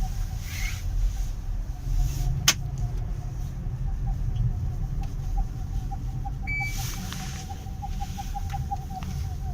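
A Kia Sorento's cabin whistle, which comes on in frosty weather: a steady mid-pitched whistle that turns into a rapid pulsing from about the middle on, over a low rumble. A sharp click about two and a half seconds in.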